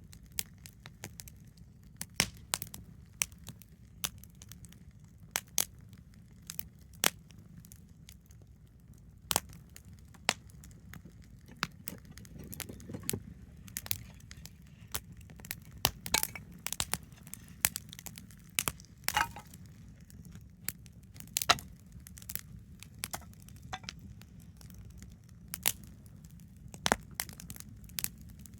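Wood campfire crackling, with irregular sharp pops and snaps several times a second over a low, steady rumble of the flames.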